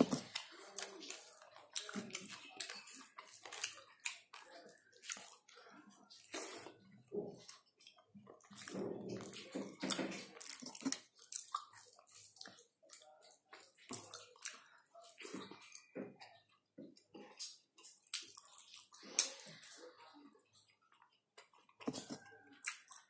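A person eating rice and meat by hand: wet chewing and lip smacking, with irregular small clicks, busiest about a third of the way in.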